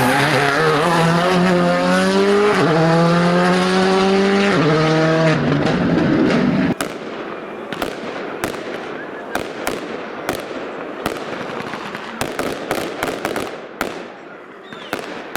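Rally car engine at full throttle, pitch climbing and dropping back twice as it upshifts through the gears. After about seven seconds it cuts to a quieter stretch of rapid, irregular sharp pops and cracks.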